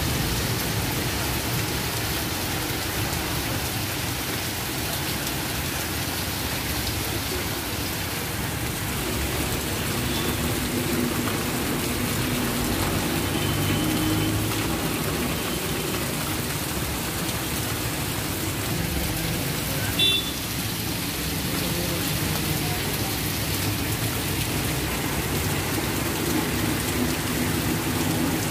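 Heavy rain pouring down on a street: a steady, dense hiss of rain on the road and roofs, with low engine hum from passing motorbikes and auto-rickshaws. One short sharp sound stands out about two-thirds of the way through.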